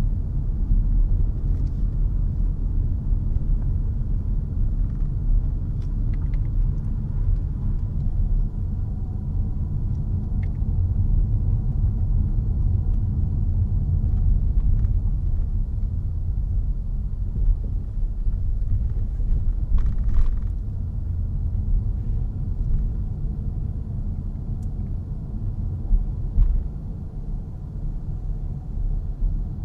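Low, steady road and tyre rumble inside the cabin of a moving 2022 Honda HR-V e:HEV hybrid, with a few short knocks and clicks, the loudest cluster about twenty seconds in.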